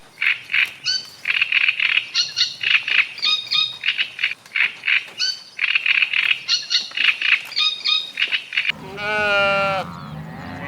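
Rapid, high chirping calls in quick repeated bursts, likely birds. About nine seconds in they give way to a single quavering bleat.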